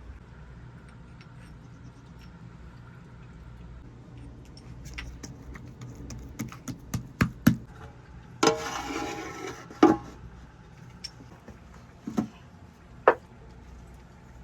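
A series of sharp knocks and clinks from handling things, with a rushing, scraping noise lasting about a second and a half just past the middle, then a few single knocks.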